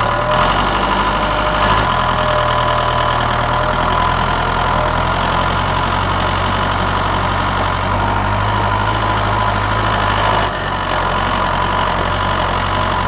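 Small tractor engine idling steadily, with slight shifts in its hum about two seconds in and again near ten seconds.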